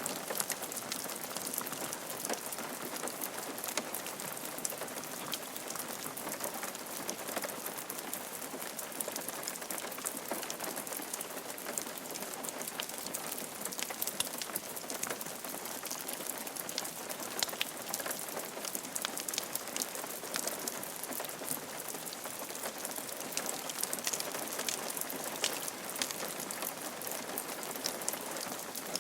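Steady rain falling on a roof, a constant patter with many individual drop ticks.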